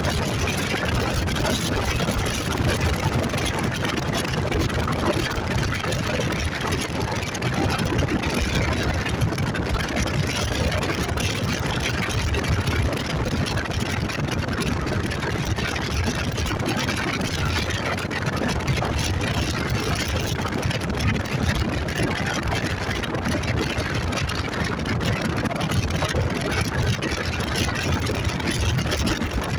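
Motorcycle running steadily while being ridden, the engine mixed into an even rushing noise with no sudden changes.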